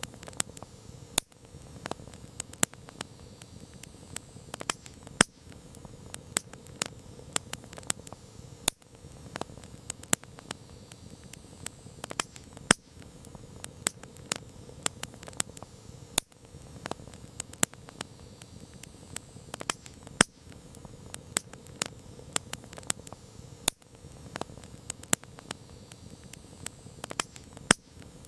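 Wood campfire crackling: irregular sharp pops and snaps, several a second at times and a few louder cracks among them, over a soft steady hiss from the burning.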